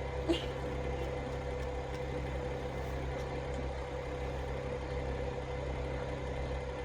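A steady low mechanical hum with a constant mid-pitched tone over it, and a small click about a third of a second in.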